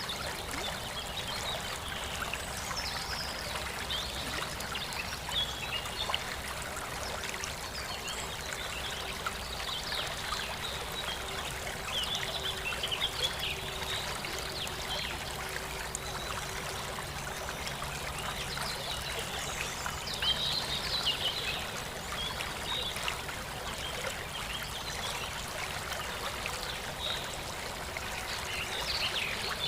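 Aquarium water trickling and splashing steadily, with a faint low hum underneath through the middle stretch.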